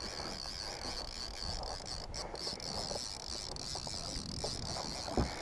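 A steady, high-pitched chirring like an insect chorus, over a low rumble of wind on the microphone.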